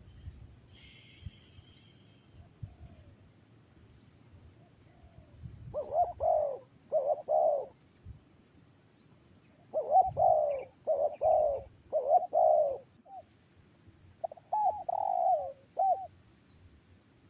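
Spotted dove cooing in three phrases of several low, bowed coo notes each, about four seconds apart.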